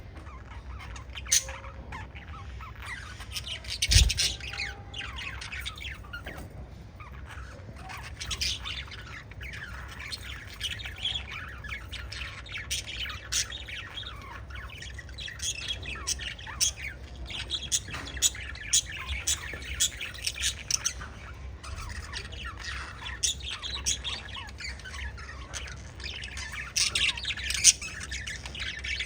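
Several pet budgies chirping and squawking busily over one another, in quick overlapping calls throughout. A loud thump about four seconds in and a few sharp clicks break through the chatter, over a low steady hum.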